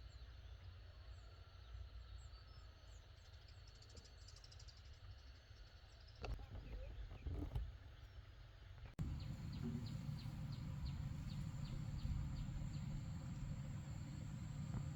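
Rural field ambience: a low steady rumble, likely wind on the microphone, with faint bird chirps. About nine seconds in, an abrupt cut brings a louder rumble and a quick run of about a dozen evenly spaced chirps.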